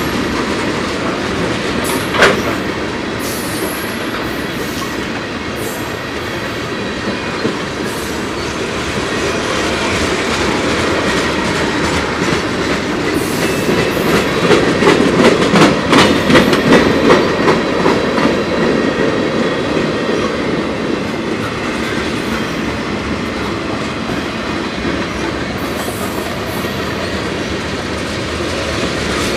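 Freight train's tank cars and covered hoppers rolling past: a steady rumble of steel wheels on rail with clickety-clack. There is one sharp click about two seconds in, and the clicking grows louder and quicker-sounding in the middle before easing off.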